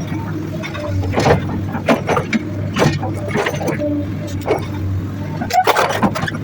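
Excavator's diesel engine running steadily, with repeated sharp knocks and clanks from the bucket working among rock.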